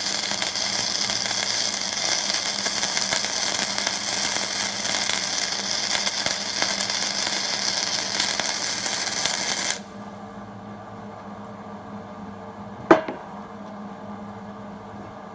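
Hobart Handler 140 flux-core wire-feed welder arc crackling steadily for about ten seconds, then stopping abruptly. A low steady hum remains afterwards, with a single sharp knock near the end.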